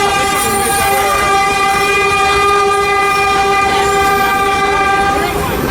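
Horn of a narrow-gauge tourist train blowing one long steady note that cuts off about five seconds in, over the constant rumble of the cars on the track.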